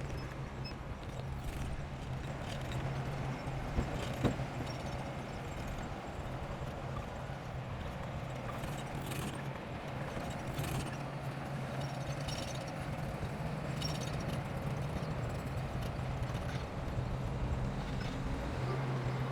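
Heavy earthmoving equipment engine running steadily with a low hum, with irregular sharp knocks and clanks, two of them sharper near 4 seconds in.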